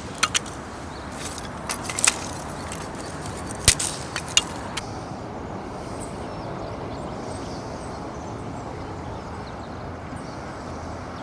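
Dry firewood snapping, a handful of sharp pops in the first five seconds, over a steady rushing background noise.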